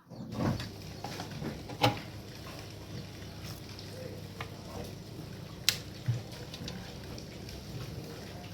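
Small audio amplifier and speaker idling with a faint steady hiss and low hum, broken by a few sharp clicks, before the music comes through.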